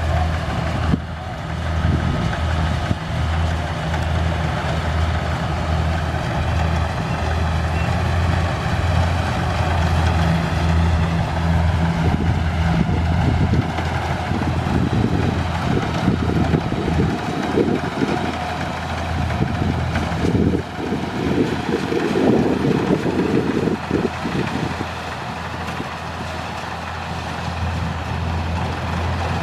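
Kubota rice combine harvester running: its diesel engine gives a steady low hum, with rougher mechanical noise swelling for a few seconds past the middle.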